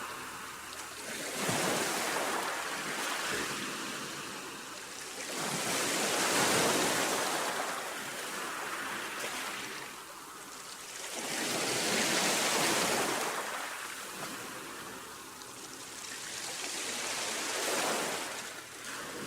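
Sea waves surging in and drawing back, four swells of rushing water spaced about five to six seconds apart.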